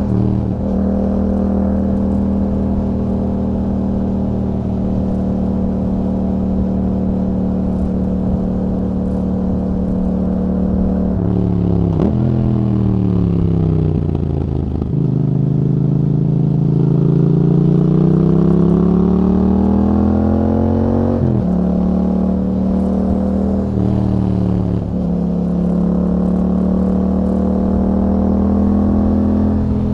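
A 2021 Yamaha MT-07's 689 cc parallel-twin engine running through an Akrapovic exhaust with a dB killer. It holds steady, then about eleven seconds in its note falls in two steps. From about fifteen seconds it rises steadily for several seconds, drops sharply as at a gear change, and settles back to steady running.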